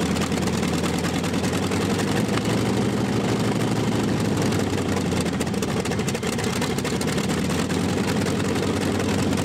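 Heavy tractor engine idling steadily, with a deep, even running note.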